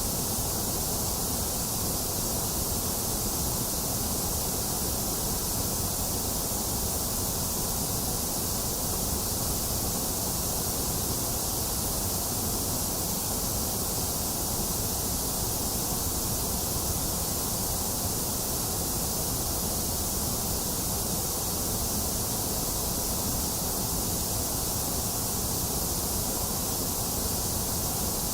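Steady generated white noise: an even, unchanging hiss that fills the highs and lows, thinner in the middle range.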